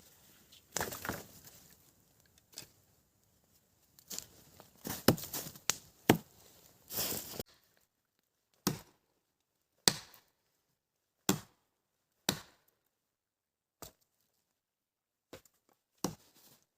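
Wood being chopped: first handling noise with a few sharp cracks, then single sharp chopping strikes, one every second or so, with quiet in between.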